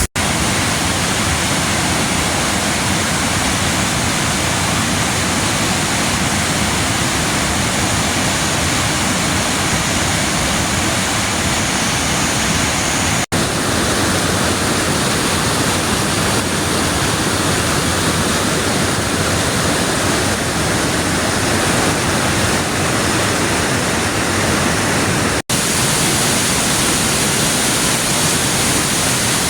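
Waterfall: a steady, loud rush of falling water. The rush briefly cuts out twice, about 13 and 25 seconds in.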